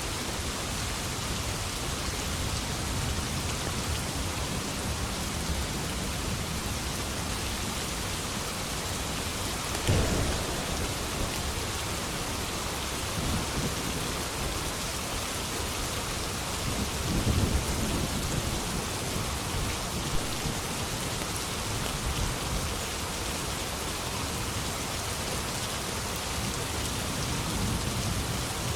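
Steady heavy rain with thunder. A sharp crack comes about a third of the way through, and a low rolling rumble follows past the middle.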